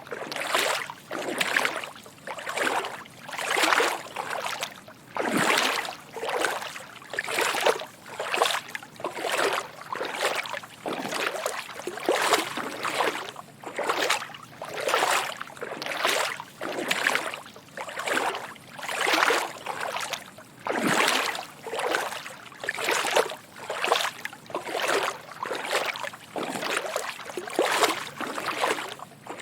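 Footsteps walking through shallow water, each step a soft slosh and splash, in an even walking rhythm of a little over one step a second.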